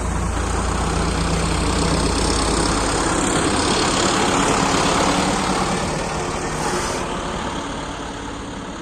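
Farm tractor's diesel engine running, steady at first, then rougher, and fading away over the last few seconds.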